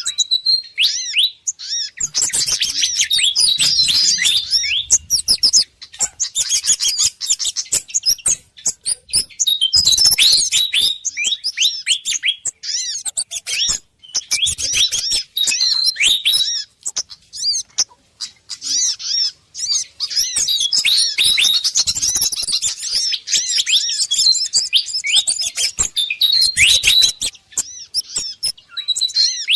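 Agitated fantail (sikatan kipas) calls mixed with sogon and kemade bird calls, as a bird-lure track: dense, rapid high chirps and twitters coming in bursts with short pauses between them.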